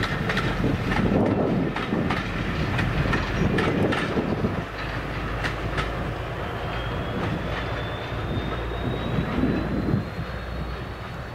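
Diesel-hauled heritage train passing, its wheels clicking over rail joints with a dense rumble for the first few seconds. The sound then drops to a steadier, quieter rumble with a faint high whine slowly rising in pitch.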